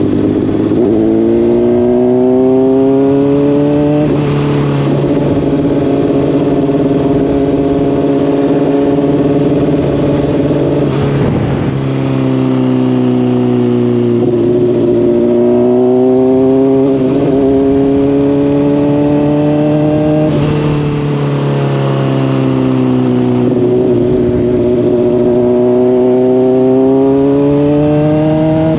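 Honda CBR600RR inline-four through a slip-on exhaust, accelerating hard: the engine note climbs and drops abruptly at each gear change, several times over, with long pulls between shifts.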